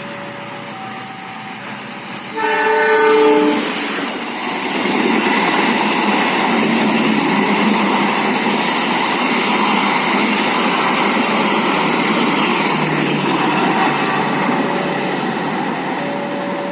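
CC 201 diesel-electric locomotive sounds its horn once, a chord lasting just over a second about two seconds in, then the train passes with a steady noise of engine and wheels on the rails.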